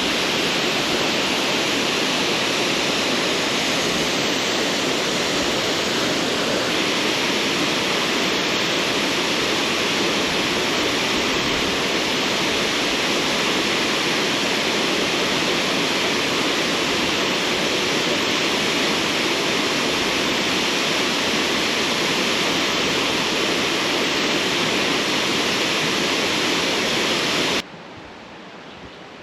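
Rushing of a waterfall swollen by heavy rain, heard close up as a steady loud roar of falling water. Near the end it cuts off abruptly, leaving a much quieter background.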